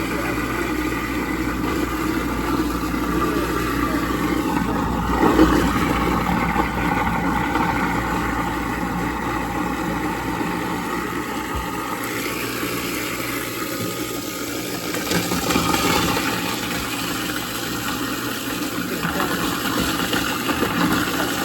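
Kitchen-sink garbage disposal running, grinding a load of ice with cold water in it: a steady dense grinding noise. The low rumble drops away about halfway through.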